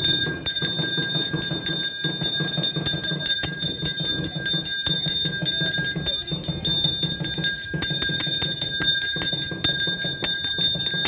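Temple bell rung continuously in rapid strokes, its steady ringing tones sustained throughout.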